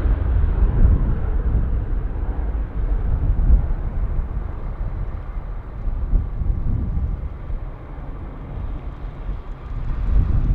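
Low, noisy rumble of a jet airliner's engines that slowly fades, mixed with wind buffeting the microphone.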